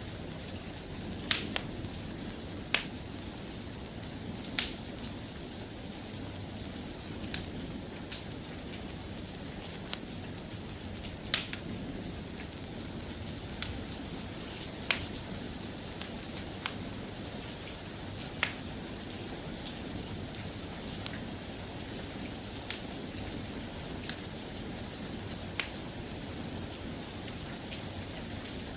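Soft, steady rain, with sharp single pops or ticks every one to three seconds.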